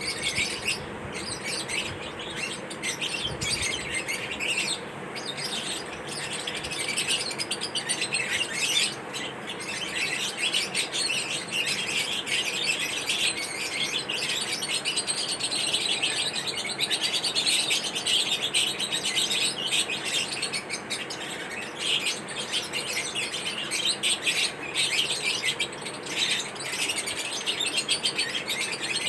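Lovebirds chirping: a steady stream of rapid, high-pitched chirps that keeps going without a break.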